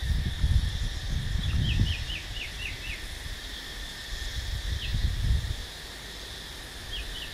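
A bird sings a rapid run of short, down-slurred notes, about four or five a second, about a second and a half in and again near the end. Under it is a steady high insect drone, with gusts of low rumble that are strongest at the start.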